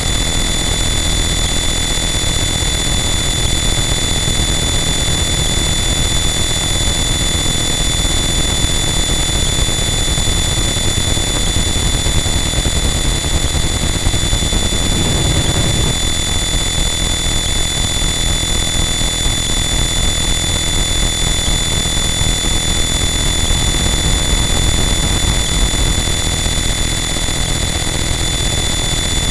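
Harsh noise wall: a dense, unchanging wall of static noise with steady high whining tones held through it and a brief shift in texture about halfway.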